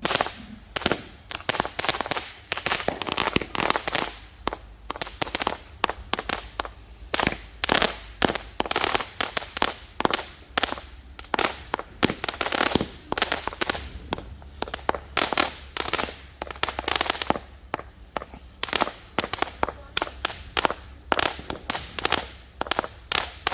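A 100-shot consumer firework cake firing colour-star shots in quick succession: a long, uneven string of sharp pops, several a second, that starts suddenly.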